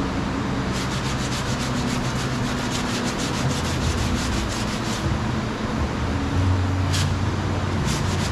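Sandpaper rubbed back and forth over Bondo body filler in quick, even strokes, about five a second. The strokes stop about five seconds in and start again near the end, over a low steady hum.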